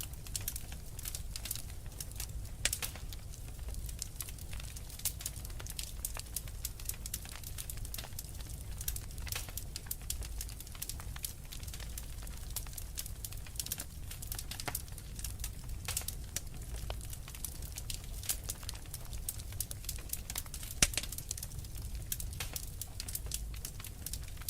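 Wood fire burning in a fireplace, crackling steadily with many small pops over a low rumble, and one sharper pop about 21 seconds in.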